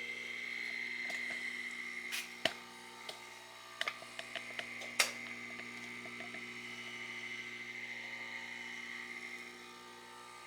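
Steady electrical hum of the rotary phase converter that powers the lathe's DC drive, with a high steady whine over it that fades near the end. Several sharp clicks and knocks of tools being handled fall a couple of seconds in and again about five seconds in.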